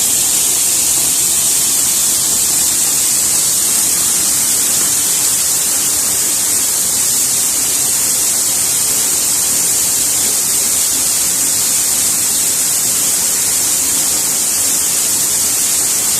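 A waterfall's falling water heard from right behind and beneath the falls: a loud, steady, unbroken hiss.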